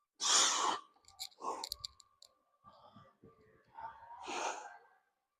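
A man breathing hard after a set of biceps reps: a heavy exhale near the start and another about four seconds in, with a few light clicks in between.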